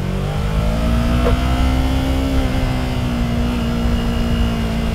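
Yamaha YZF-R3's 321cc parallel-twin engine accelerating hard under throttle. Its pitch climbs in the first moment, then holds high and steady.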